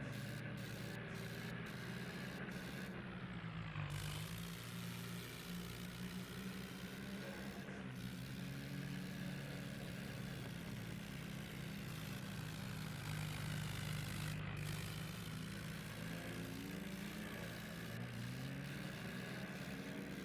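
Tractor engine running steadily, its pitch dipping and rising slightly a couple of times.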